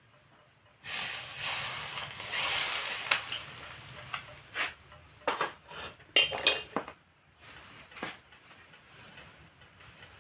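Hot peanut oil with minced garlic sizzling: it starts suddenly about a second in and dies away over several seconds. Several sharp clinks of metal cookware and utensils follow.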